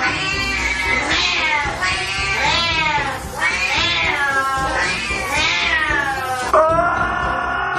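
Domestic cat yowling: a string of drawn-out meows, each rising and falling in pitch, ending in a steadier held cry.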